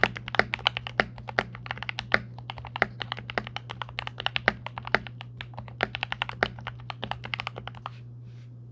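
Typing on a 66% hotswap mechanical keyboard fitted with lubed Durock Golden Cap V2 switches, plate-mounted stabilizers, neoprene case foam and a tape mod: a fast, uneven run of keystroke clacks that stops about eight seconds in. A steady low hum runs underneath.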